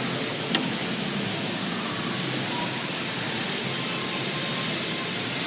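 Steady, even rushing noise, with one short click about half a second in.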